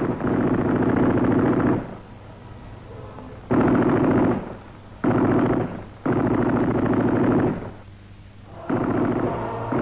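Machine-gun fire in bursts of one to two seconds of rapid shots, about five bursts with short gaps between.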